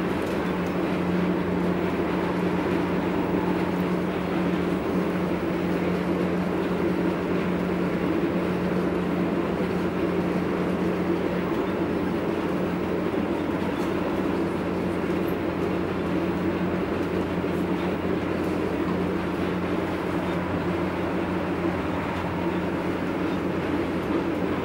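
Inside an electric commuter train running at speed: steady rolling noise from the wheels and running gear, with a constant low hum.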